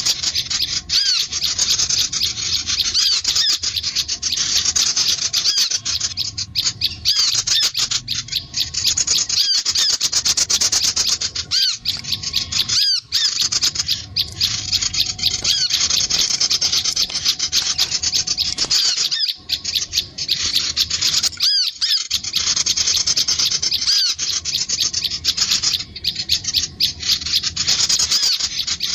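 Sunbirds and prinias calling: dense, rapid, high-pitched chirping notes that run on almost without a break, with a few brief pauses.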